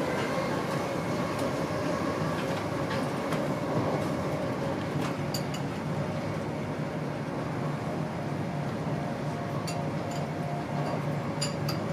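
Inside an InterCity 125 (HST) passenger coach running at speed: a steady rumble of wheels on rail, with a faint steady whine and a few light clicks and clinks, most of them near the end.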